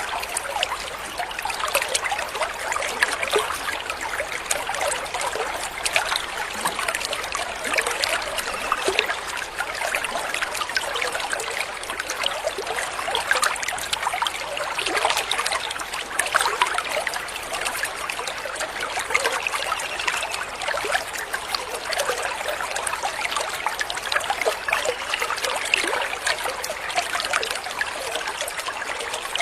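Water trickling and babbling steadily, like a small stream running over stones.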